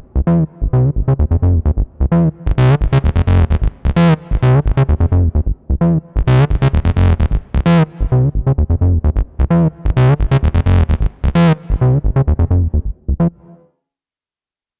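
Behringer TD-3-MO analog bass synthesizer playing a fast, repetitive 303-style acid bassline sequence of short staccato notes. The pattern stops abruptly near the end, leaving silence.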